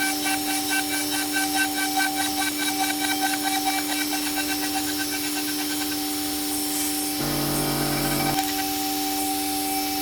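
CNC router spindle with a 6 mm two-flute ball-nose bit milling a 6082 aluminium mold cavity, a steady machine whine over the rough noise of the cut.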